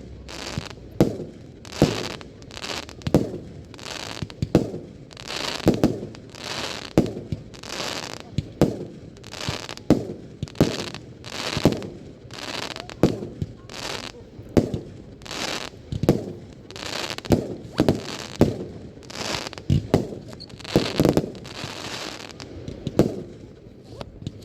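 Fireworks display: a continuous run of shell bursts, booming more than once a second without a break.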